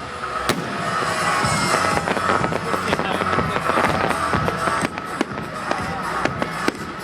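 Fireworks going off in quick, irregular succession: a dense run of bangs and crackles, with music playing along.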